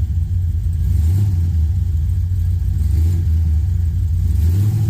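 LS V8 engine in a swapped OBS Chevy pickup running under throttle, its revs swelling and easing a few times, as the two-wheel-drive truck tries to drive out of the hole it has dug in the snow.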